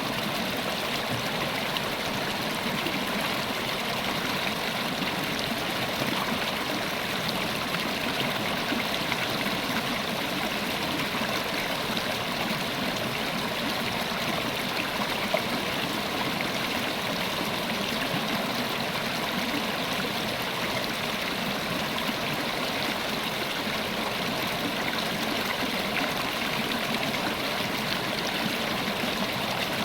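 River water running over stones: a steady rushing and trickling with no change in level.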